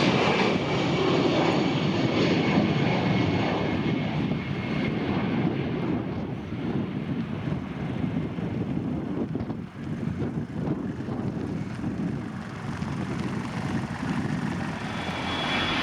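Jet engines of an Airbus A320 taking off, a continuous rushing noise with a faint high whine that slowly fades as the aircraft moves away.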